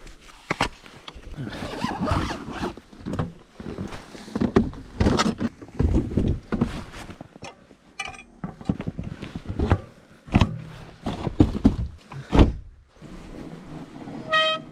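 Fat bike on 4.8-inch tyres ploughing through deep fresh snow: irregular crunching and thumping from the tyres and the rattling bike. Near the end comes a short, high squeal from the brakes.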